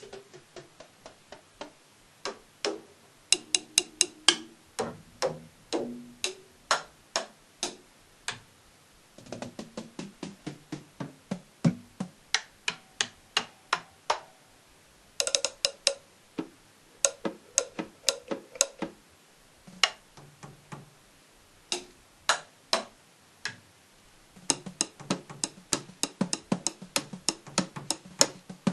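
Unamplified drumstick strikes on electronic drum and cymbal pads with the sound module switched off: the acoustic tapping and thudding of the triggered pads and rims, in single hits and quick runs, denser near the end as the whole kit is played.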